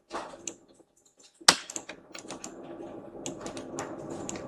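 Computer keyboard keys tapped in irregular clicks, one sharper click about a second and a half in, with a faint steady hum behind from about two seconds in.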